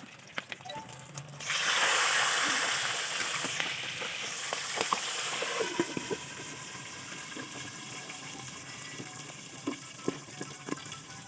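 Pieces of boiled pork sizzling in hot cooking oil. The hiss starts suddenly about a second and a half in, then slowly settles, with scattered pops and crackles from the oil.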